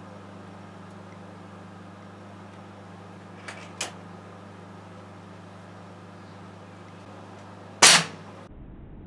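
A running microwave oven hums steadily. Two light clicks come about three and a half seconds in, then a single loud gunshot crack near the end, after which the hum cuts off abruptly.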